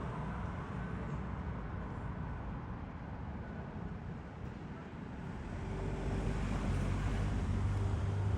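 Low, steady rumble of vehicle and road traffic noise, growing louder over the last three seconds.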